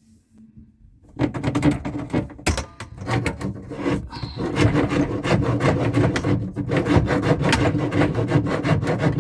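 A drain snake scraping and rubbing as it is worked back and forth through a clogged dishwasher drain line. The grating is continuous and rough and starts about a second in.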